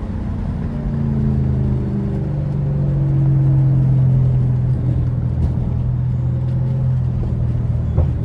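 Lexus GS430's 4.3-litre V8, running without catalytic converters, droning through its exhaust while driving. The note swells about a second in, holds, then eases slightly lower in pitch and level.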